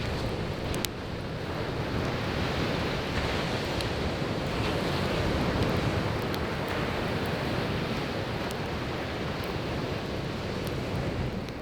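Sea waves breaking and washing on a beach, a steady rushing, with a few sharp crackles from burning firewood scattered through it.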